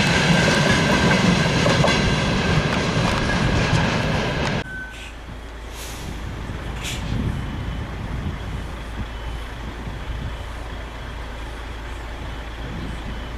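Tank wagons of a freight train rolling past close by, the wheels clattering on the rails with a steady squeal. About a third of the way in it cuts off abruptly, leaving a quieter, steady low rumble.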